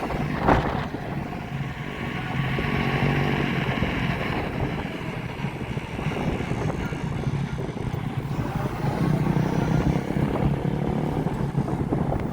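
Motorbike engines running steadily, with wind noise on the microphone and a sharp click about half a second in.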